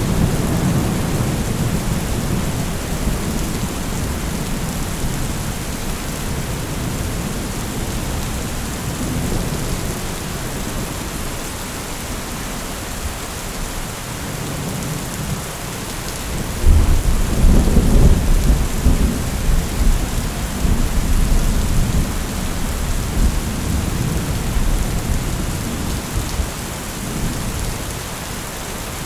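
Heavy rain falling steadily in a thunderstorm. A low thunder rumble fades out at the start. About two-thirds of the way through, a louder peal of thunder breaks in suddenly and rolls away over several seconds.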